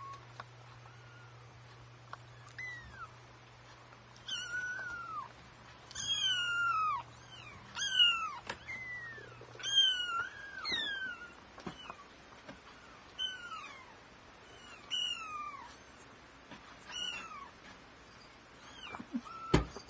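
About three-week-old kittens mewing: about ten high-pitched calls, each falling in pitch, repeating every second or two. There is a single sharp knock near the end.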